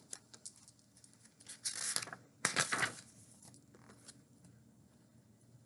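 Paper being handled: two short rustling swishes, the first about one and a half seconds in and the second about two and a half seconds in, with small ticks around them, as a book page is turned.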